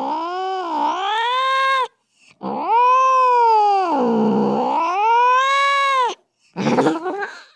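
Recorded angry cat yowling, played back from a cat-sounds app. There are long drawn-out yowls that sag and rise in pitch: one ends about two seconds in, the next lasts nearly four seconds, and a short, rougher call comes near the end.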